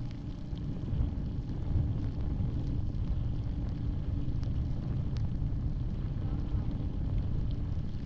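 Yamaha Grizzly 700 ATV's single-cylinder engine running with a steady low rumble.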